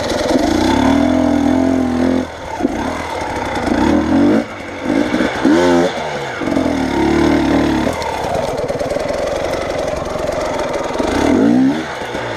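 A vehicle's engine revving hard in repeated surges of a second or two as the stuck vehicle tries to drive out.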